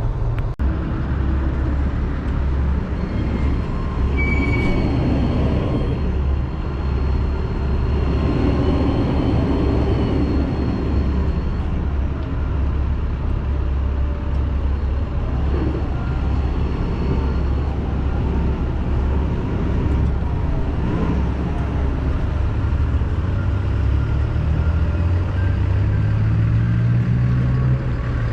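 Semi-truck diesel engine running steadily, its pitch rising over the last few seconds as it picks up revs.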